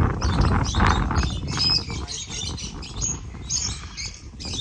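Birds chirping with short high calls scattered throughout, over a rustling noise in the first couple of seconds.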